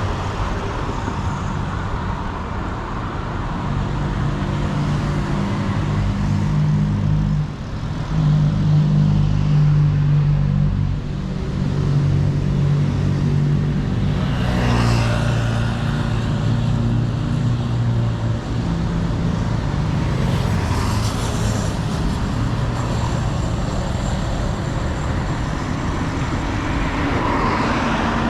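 City street traffic: motor vehicle engines running close by with a steady low hum, and a vehicle passing about halfway through.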